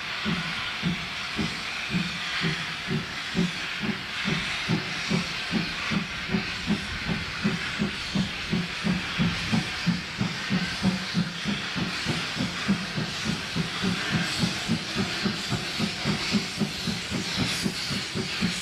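C11 steam locomotive working under steam, with a steady train of exhaust chuffs about three a second over a constant hiss of steam.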